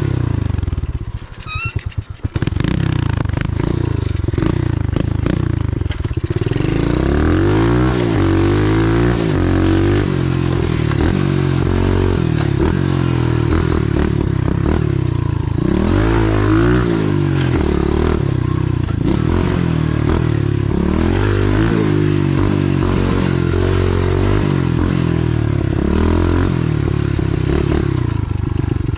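125cc pit bike's single-cylinder engine running under way, its revs rising and falling over and over as the throttle is worked. It runs lower for the first few seconds, then revs up and down repeatedly from about six seconds in.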